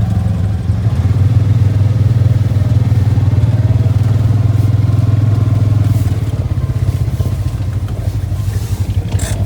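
ATV engine running steadily while riding, easing off about six seconds in into a rougher, pulsing lower-revving sound.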